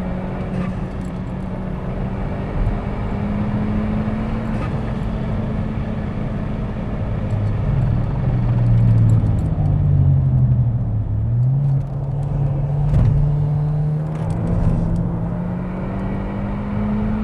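SEAT Leon Cupra's turbocharged 2.0-litre four-cylinder engine pulling hard on track, with road and tyre noise throughout. Its pitch climbs slowly, drops lower and wavers around the middle, then climbs again near the end.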